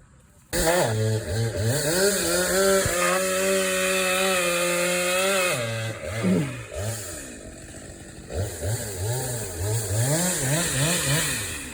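Gasoline chainsaw held at high revs for several seconds, then dropping back and blipped up and down about half a dozen times in quick succession near the end.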